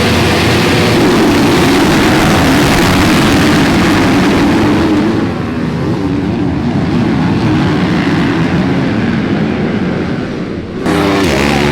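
Motocross bike engines revving hard and rising and falling in pitch as the riders work the throttles. The sound changes abruptly near the end.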